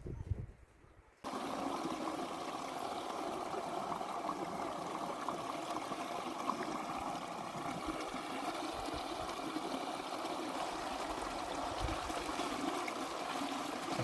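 Steady running water, starting abruptly about a second in.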